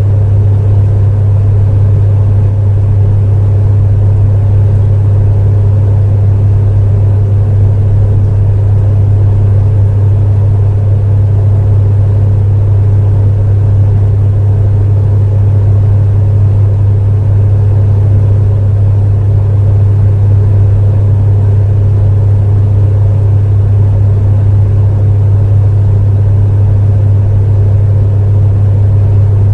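Electric space heater running steadily: an unbroken fan whir over a strong, even low hum.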